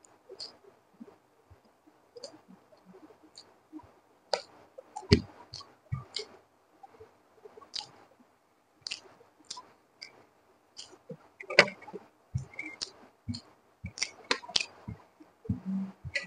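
Close-miked chewing of egg fried rice, heard as scattered short wet mouth clicks and smacks.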